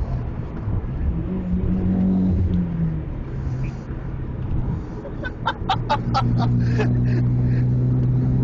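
Mitsubishi Lancer Evolution's turbocharged four-cylinder engine running under load. Its steady drone drops away right at the start, then settles back into a steady drone about six seconds in. Just before it returns there is a quick run of short, sharp, high-pitched bursts, about five a second.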